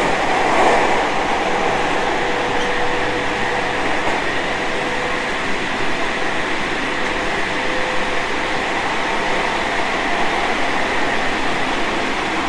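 Tobu 30000 series electric train running at speed between stations, heard from inside a car: a steady rush of wheels and air with a faint steady whine, swelling briefly about half a second in.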